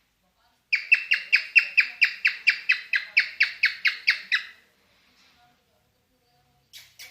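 Cockatiel in mating mood calling a fast run of about eighteen short, sharp chirps at about five a second, lasting nearly four seconds; after a pause, another run of chirps starts near the end.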